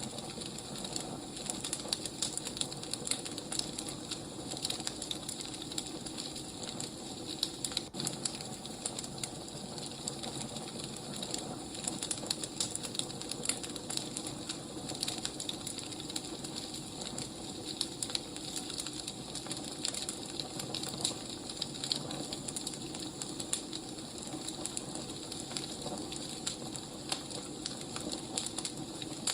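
Wood fire burning: a steady hiss with many small, irregular crackles and pops.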